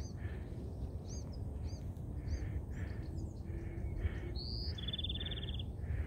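Wild birds calling: repeated short chirps, a steady run of evenly spaced lower notes, and a quick trill near the end, over a low rumbling noise.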